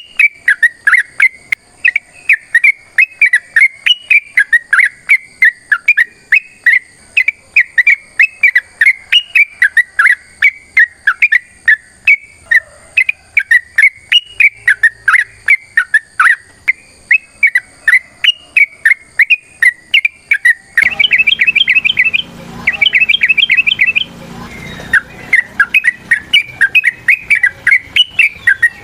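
Yellow-vented bulbul (trucukan) singing a long, fast run of short bright chirps, about three or four a second. About two-thirds of the way in the background suddenly turns noisier and the bird gives two rapid trills before going back to the chirping.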